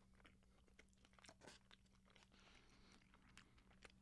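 Faint, close-miked chewing of soft food (moussaka and rice), with small wet mouth clicks and a brief scrape-like rustle about two and a half seconds in.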